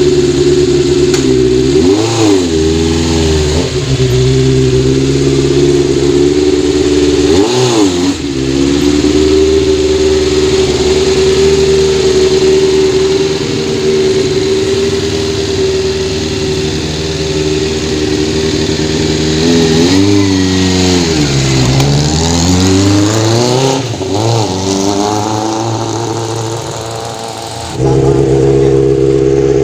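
Kawasaki GPz400 four-cylinder motorcycle engine running at a steady idle, with a quick throttle blip about two seconds in, another near eight seconds, and a run of several blips later on; it runs and settles back to idle after its carburettor overflow was fixed.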